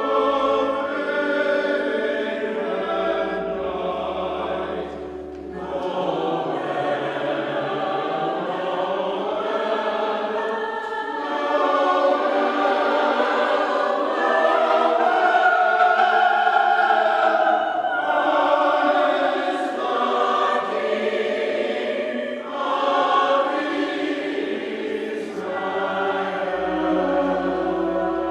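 A choir singing with instrumental accompaniment, sustained phrases changing every few seconds.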